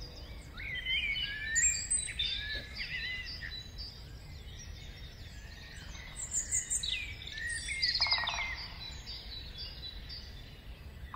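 Several small birds chirping and whistling in quick, overlapping phrases that glide up and down, with a harsher, buzzier call about eight seconds in.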